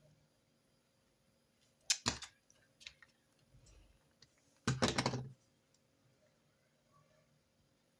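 Two short bursts of quick clicks and light knocks, one about two seconds in and a longer one near the middle, with a few faint ticks between: stationery or small objects being handled and set down on a desk during note-taking.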